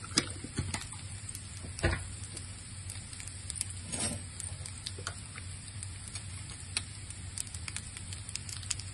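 Rice and egg sizzling and crackling in a frying pan on a gas stove, steady and fairly quiet, with a few sharper knocks in the first two seconds.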